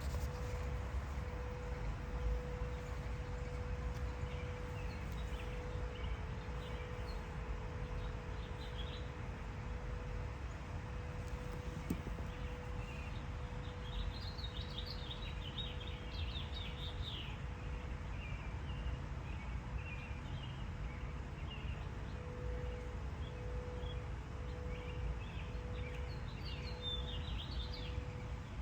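Small birds chirping and twittering, with a busy flurry about halfway through and another near the end, over a steady hum and a low background rumble.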